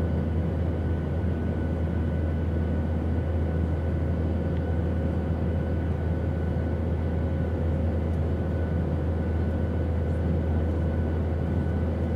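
Steady airplane drone, a continuous low rumble with a few faint steady tones above it.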